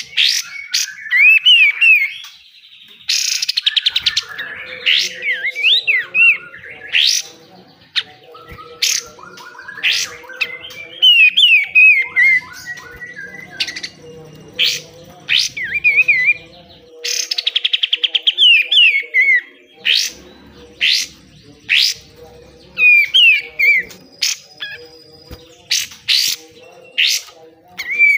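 Kapas tembak (olive-winged bulbul) singing hard: short falling whistled phrases mixed with rapid buzzing trills and many sharp, snapping notes. The bird repeats these phrases throughout.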